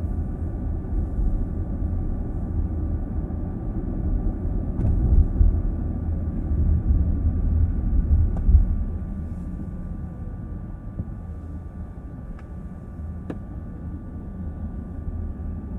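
Car driving, heard from inside the cabin: steady low road and tyre rumble with faint steady high tones above it. The rumble grows quieter about nine seconds in, and a few faint ticks come through.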